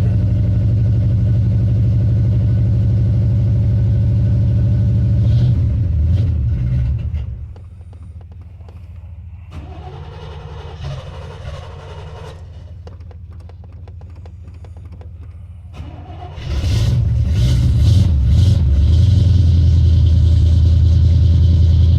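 Old pickup truck engine running loudly at cold idle, then dropping away to a much lower, quieter run about a third of the way in. About three-quarters through an engine catches, stumbles briefly and settles back into a loud, steady cold idle, a cold start made without choke.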